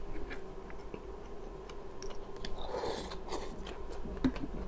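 A person chewing and biting flatbread close to the microphone, with small scattered mouth clicks and a brief crunchier bite about three seconds in.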